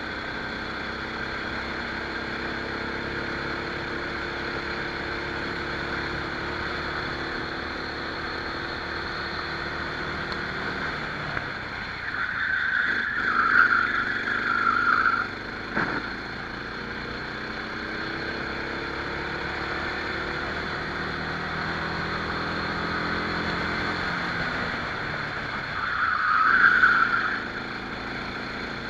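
Rental kart engine running at racing speed, its pitch rising and falling with the throttle. Two louder high-pitched squeals come through, one about twelve seconds in lasting a few seconds and a shorter one near the end.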